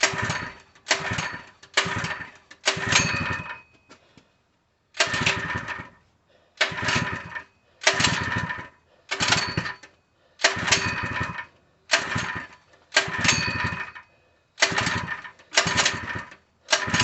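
A 3 HP Harbor Freight single-cylinder engine being pulled over again and again on its recoil starter, about fourteen short cranking bursts in irregular groups, without catching and running. It will not start; the owner takes it for a fuel delivery problem.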